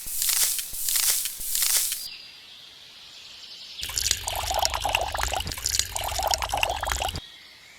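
Liquid being poured and splashing: first a few quick swishing strokes, then after a short pause a steady, splashy pour that stops suddenly about seven seconds in.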